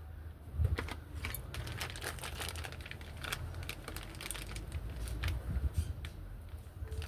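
Rapid, irregular light clicks and crinkling, with a low rumble underneath.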